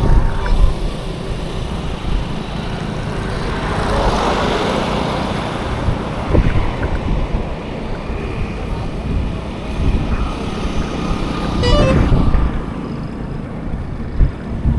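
Road traffic heard from a bicycle: a steady rumble of passing vehicles and wind, with a vehicle horn tooting briefly about twelve seconds in.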